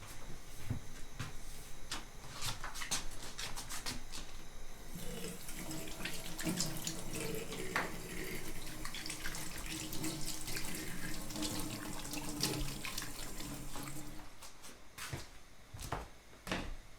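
Water running or pouring into a vessel for about nine seconds, starting about five seconds in, with a few knocks and clatter before and after it.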